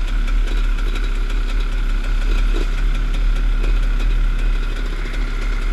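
Enduro dirt bike engine running steadily, with no revving.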